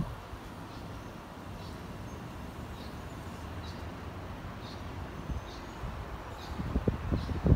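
A bird chirps outdoors in short high notes, about one or two a second, over a low steady rumble. Bursts of low rumble come near the end.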